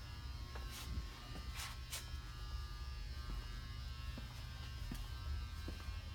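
Steady electrical buzz over a low hum, with a few faint brief rustles.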